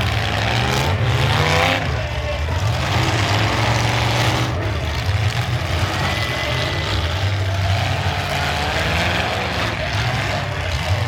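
Demolition derby cars' engines running loud and revving, the pitch climbing in the first couple of seconds, over a continuous mix of engine noise.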